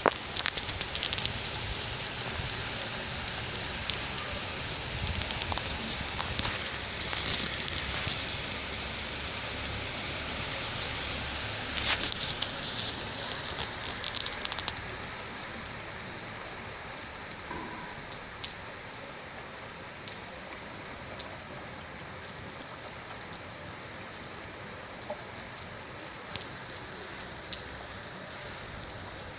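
Rain falling steadily, with scattered drops ticking sharply; it is heavier at first and eases to a lighter patter about halfway through.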